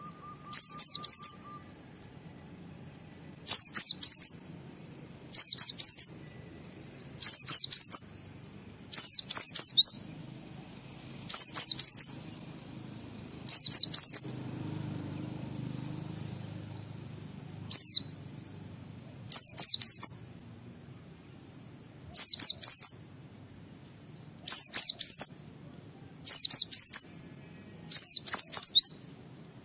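Pleci (white-eye) in full song: short, high phrases of rapid falling notes, repeated about every two seconds, with one longer pause about halfway through.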